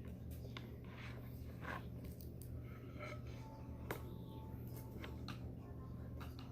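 Scattered small clicks and taps over a steady low hum, with a few brief faint tones.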